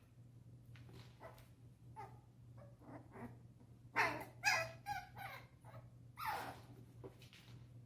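Puppies playing, giving a few short, high yips and barks, loudest about four seconds in and again near six seconds.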